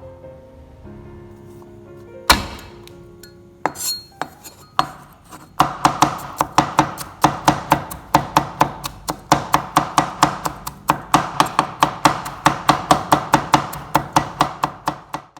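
Knife chopping fast on a cutting board, an even run of about four to five sharp knocks a second that starts about five seconds in and runs on, after a single louder knock and a few light clicks earlier. Soft background music plays underneath.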